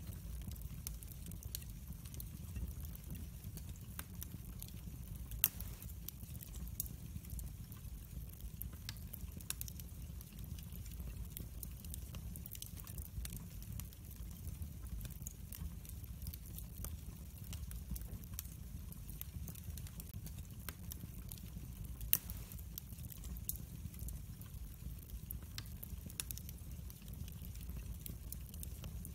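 Wood fire burning in a fireplace: a low steady rumble of flames with scattered sharp crackles and pops, two louder pops about five seconds in and near three quarters of the way through.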